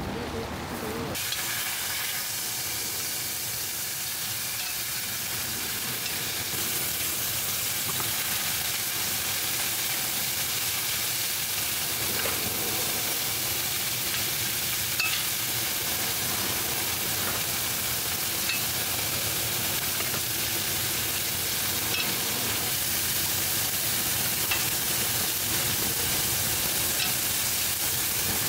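Food sizzling steadily in a hot pan, with faint scattered pops; it starts suddenly about a second in.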